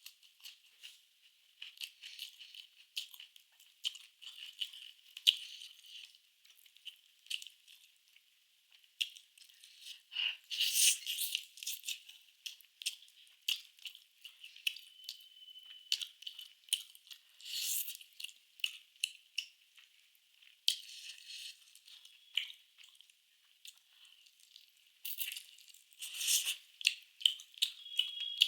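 Close-miked eating sounds: irregular chewing and crunching with many sharp clicks, thin and hissy with no low end.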